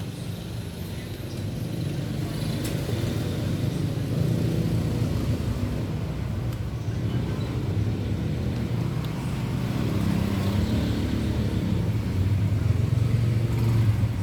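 Low, steady engine drone that grows gradually louder.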